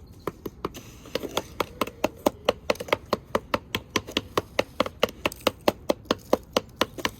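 A toy or sand tool tapping repeatedly in a play sandbox, a steady run of sharp taps about four a second, each with a short ring.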